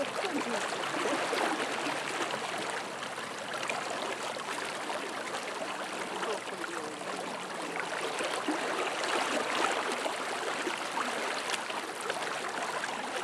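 Steady rush of fast-flowing water from a river running high in flood.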